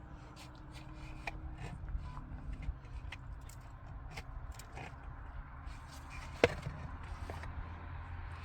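Irregular sharp knocks and taps of hard objects being struck, a few each second, with one much louder knock about six and a half seconds in, over a steady low hum.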